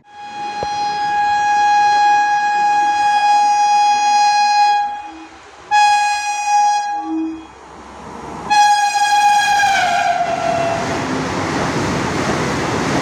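Locomotive horn of an Indian express train sounding three blasts: a long one of about five seconds, a short one, then a third whose pitch slides down at its end. It is followed by the loud, steady rushing noise of the train going by.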